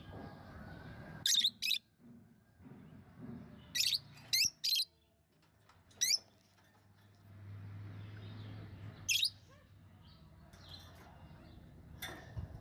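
Lovebirds giving short, sharp, high-pitched chirps, singly and in quick pairs, every second or two.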